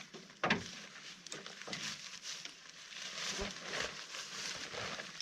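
Rustling and crackling of handled tent fabric, with a sharp knock about half a second in and a few lighter knocks after it.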